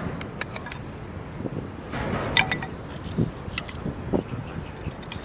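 Wood bonfire crackling with scattered sharp pops, over a steady high-pitched insect drone.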